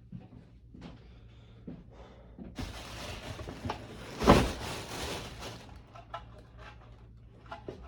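Cardboard cartons and packaging being crushed and stuffed into a trash can: a few light knocks, then about three seconds of rustling and crunching with one loud crunch in the middle.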